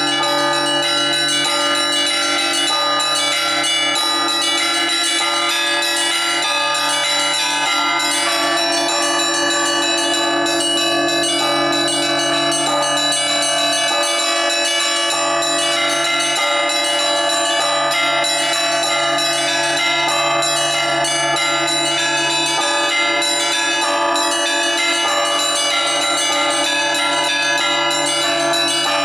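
Russian Orthodox church bells rung by one bell ringer in a continuous peal (zvon): quick, rhythmic strikes of small bells over the steady hum of larger bells. The deepest bell drops out briefly about halfway through.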